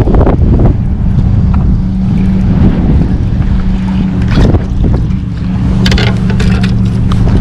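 Wind buffeting the microphone in a steady low rumble, over a steady low boat-motor hum, with a few sharp clicks about four and a half and six seconds in.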